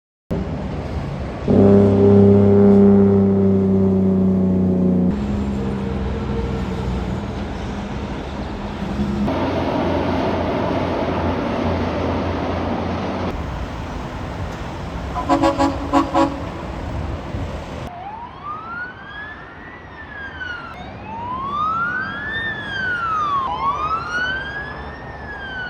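Heavy trucks passing in a string of short cuts: a loud, slightly falling pitched drone, then engine noise and a few short toots, then from about 18 s an emergency vehicle's siren wailing up and down.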